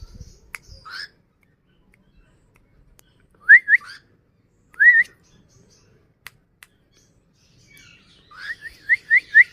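Cockatiel whistling in short, clear, rising notes: a pair about three and a half seconds in, a single one a little later, then a quick run of about six near the end.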